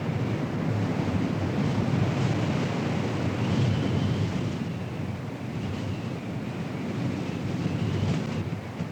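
Strong tornado wind rushing and buffeting the microphone in a steady, rumbling roar that swells and eases, with a faint wavering high whistle coming and going.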